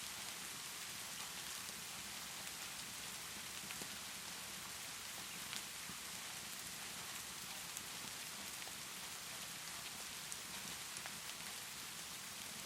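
Steady rainfall, an even hiss with no thunder or wind, and now and then a faint sharp pop of a crackling fireplace.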